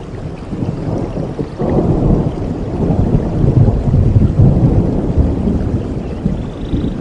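Rolling thunder rumbling over steady rainfall. It swells about a second and a half in, is loudest in the middle and slowly eases off.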